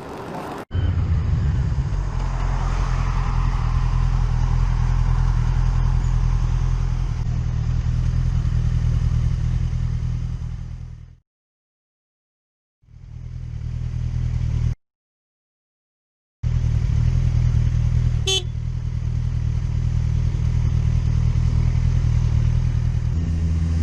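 Motorcycle engine running at a steady pace with wind and road noise, as heard from the rider's camera, cut off twice by abrupt silences in the middle. A short, sharp pitched sound stands out about three-quarters through.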